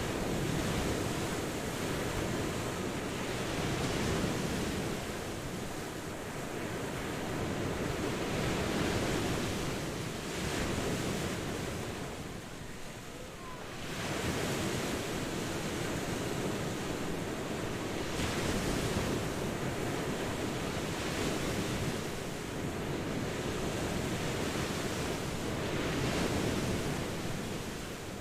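Ocean waves breaking and washing on a shore, a steady rushing wash that swells and falls every few seconds, with a brief lull about halfway through.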